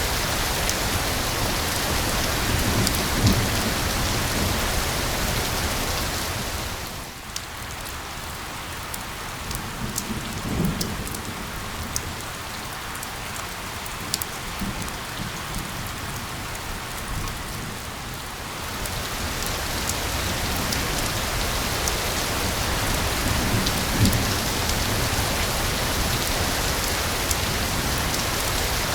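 Steady rain with a dense hiss. From about seven seconds in it thins for roughly twelve seconds, and single drops ticking stand out. A few brief low rumbles come at intervals.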